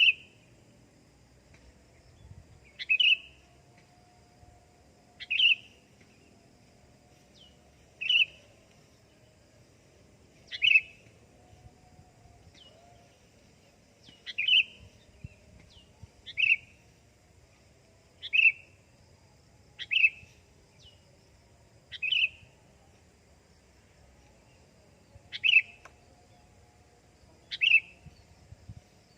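Sooty-headed bulbul (kutilang) giving a short, sharp single-note call, repeated every two to three seconds.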